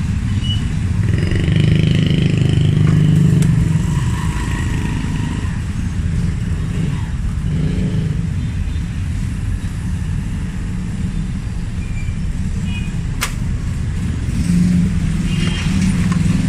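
Steady low rumble of road traffic, with motorbike-like swells, and a sharp click about thirteen seconds in.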